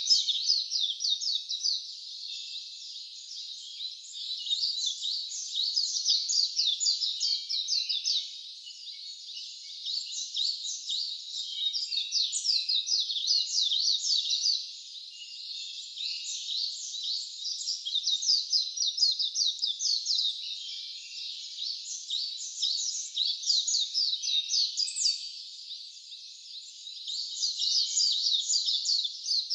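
Wild birds singing, fast runs of high, quick downward-sweeping notes from several birds at once, swelling in bouts of a few seconds with brief lulls between them.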